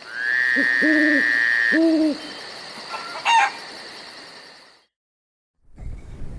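Low hooting bird calls, an owl-like hoot three times in the first two seconds over a high steady whistling tone, then a short warbling call about three seconds in. All of it stops about five seconds in.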